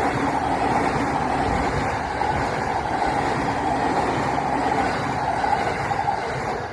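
Electric commuter train passing close by, a loud, steady running noise.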